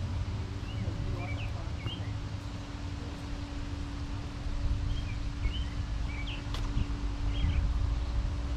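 Small birds chirping in two short bouts of quick chirps, early and again past the middle, over a steady low outdoor rumble with a faint constant hum.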